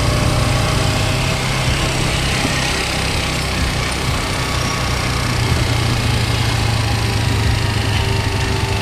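Motorcycle engine running steadily while riding, with a constant low drone and road and wind noise.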